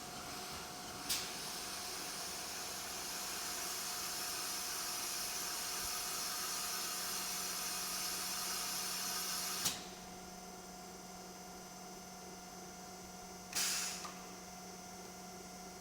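Hydraulic testing machine humming steadily. A loud hiss starts with a click about a second in and cuts off sharply with another click near ten seconds, and a second short hiss comes near the end.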